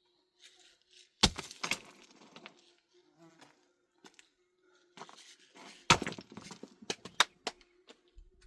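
An insect buzzing steadily, broken by two loud sharp knocks, about a second in and near six seconds, each with a short rattle after it, and a few quicker clicks soon after the second.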